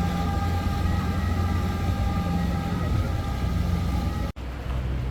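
A motor vehicle running steadily, a low rumble under a few steady whining tones. It cuts off abruptly about four seconds in, and a different, duller hum follows.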